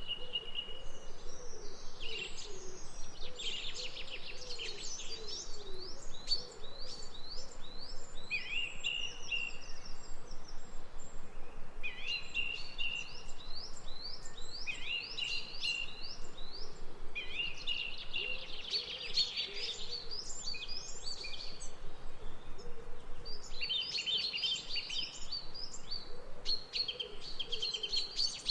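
Songbirds singing: repeated phrases of quick descending notes and rapid trills, one after another with short gaps, over a soft steady outdoor background.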